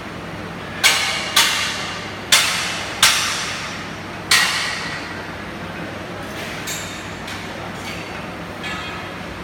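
Five hard hammer blows on steel, each ringing out and dying away, the last about a second after the fourth; a few faint taps follow.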